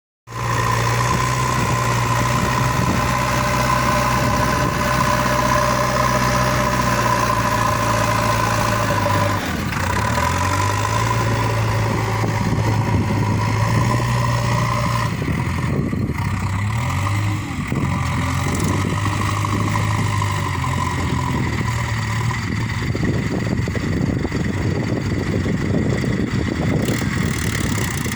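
Diesel engine of a tractor or JCB backhoe loader running steadily, its pitch dipping and shifting a couple of times as the engine speed changes under work.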